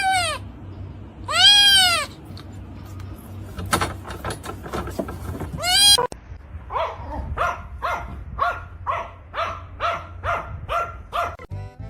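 An animal's loud arching calls: two long calls near the start and another near the middle, with a few knocks between, then a quick run of about a dozen shorter calls, roughly two a second.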